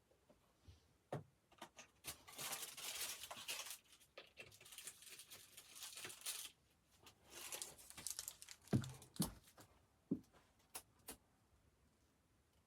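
Close, crinkly rustling and tearing of handled material, with a few short knocks in the second half.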